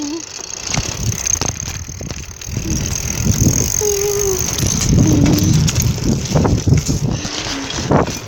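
Bicycle rolling downhill, with wind and rumble on the microphone building from about two seconds in. Several short, steady squeals and a few sharp clicks are heard along the way.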